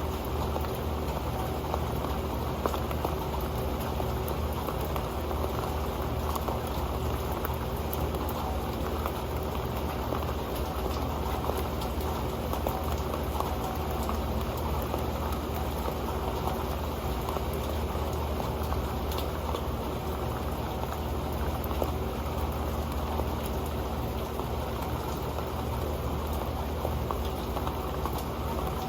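Rain falling onto an old metal pan: a steady, dense patter of drops that does not let up.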